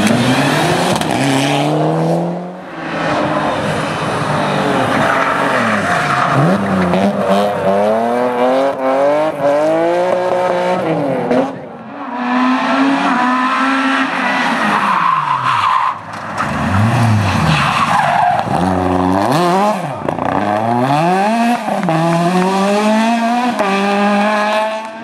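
Rally cars at full attack, engines revving hard, rising and falling through gear changes and lifts, with tyres squealing and skidding. The sound cuts abruptly between cars three times.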